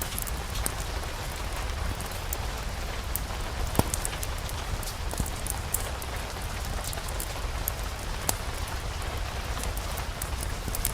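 Steady rain ambience with a low rumble underneath and scattered sharp ticks and pops, a few louder ones around four, five and eight seconds in.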